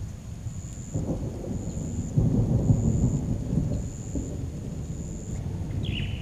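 Thunder rumbling over steady heavy rain: a deep rumble swells about a second in, peaks a second later and fades away over the next couple of seconds.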